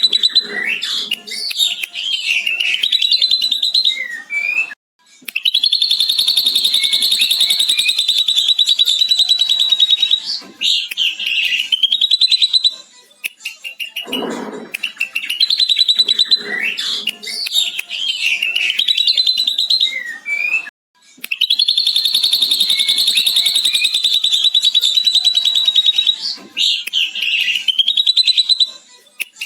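Ashy drongo singing a long, rapid, chattering trill copied from a lovebird's 'ngekek' chatter, held for about five seconds, twice, with shorter warbled and whistled phrases in between.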